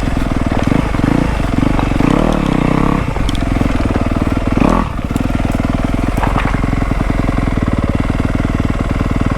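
Dirt bike engine running at low revs, with a few short throttle changes in the first five seconds and a brief louder blip near five seconds in, then a steady low chug.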